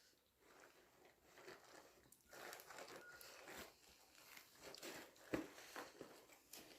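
Near silence, with faint rustling and a few soft clicks from about two seconds in.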